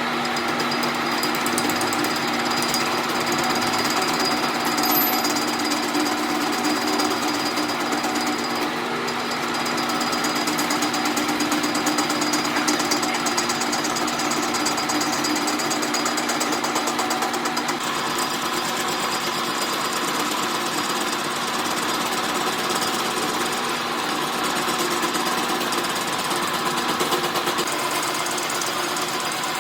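A workshop machine running steadily with a rapid, even rattle of fast repeated impacts over a steady hum.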